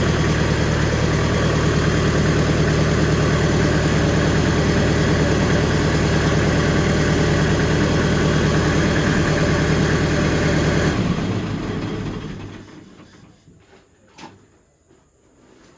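McCormick International B-375 tractor's diesel engine idling steadily, then shut off about eleven seconds in, running down and stopping over a second or so. A faint click follows a few seconds later.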